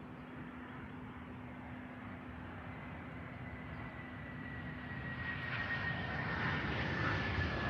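Bombardier CRJ regional jet arriving to land, its twin turbofans growing steadily louder as it approaches, with a thin high whine that drifts slowly down in pitch.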